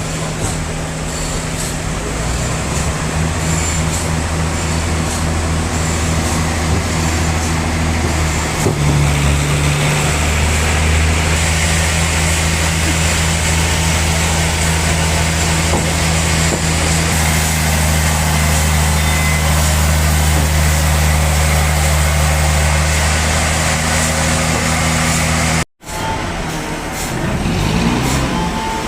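Sawmill machinery running steadily with a constant low hum, as a large log is sawn into slabs. The sound cuts out for a moment near the end.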